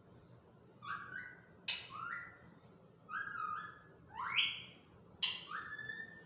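Pet parrot calling: five short, loud, shrill calls, each rising sharply in pitch and then holding, spaced roughly a second apart.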